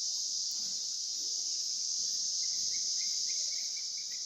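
Insects chirring in a steady high-pitched chorus, with a faint quick ticking joining in about halfway through.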